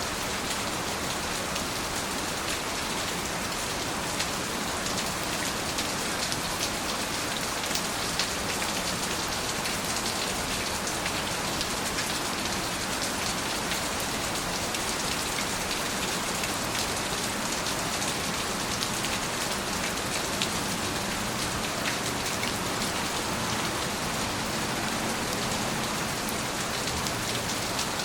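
Steady rain falling, with a continuous hiss of rainfall and many individual drops ticking throughout.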